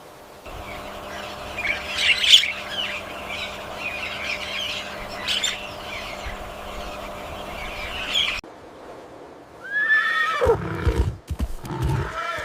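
Outdoor background with faint high chirps, then an abrupt cut to a loud animal call that falls steeply in pitch, followed by more loud calls near the end.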